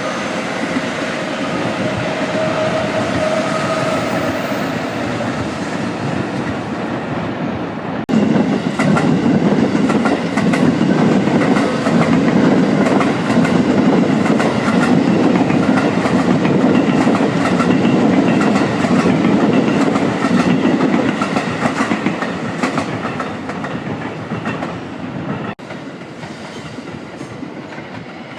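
Trains passing through a station: steady rumble of wheels on rail with clickety-clack, a short whine in the first few seconds. The sound cuts abruptly to a louder, denser passing-train rumble about eight seconds in, which eases off near the end.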